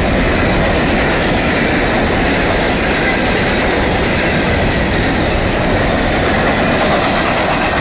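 Steel-wheeled coke hopper cars of a CSX freight train rolling past at close range: a steady, loud rumble of wheels on the rails with rhythmic clacking.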